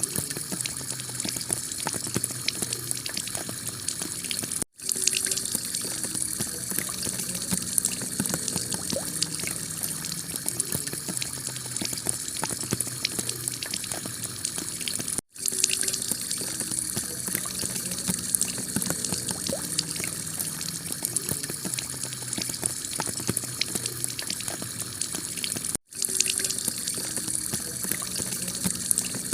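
Heavy rain pouring onto a tile roof: a dense, steady hiss of water with many small drop impacts. The sound cuts out for an instant three times, about every ten and a half seconds.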